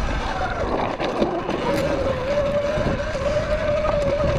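Sur-Ron X electric dirt bike's motor whining as it is ridden over single track. The pitch wavers and breaks up about a second in, then holds steady, over a rumble of wind and trail noise.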